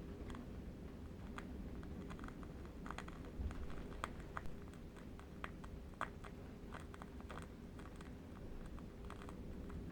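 Scattered light clicks, irregular and now and then in quick little runs, over a low steady rumble.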